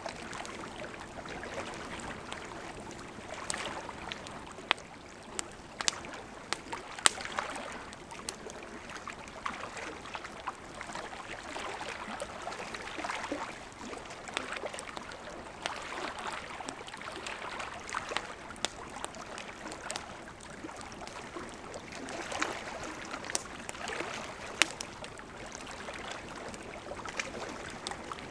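Campfire of burning wood crackling: a steady hiss of flames with irregular sharp pops and snaps scattered throughout.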